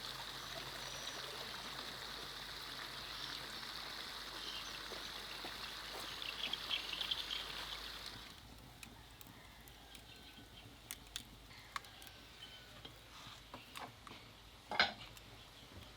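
Water running and trickling steadily, stopping about halfway through. Scattered light clicks and knocks follow, with one louder knock near the end.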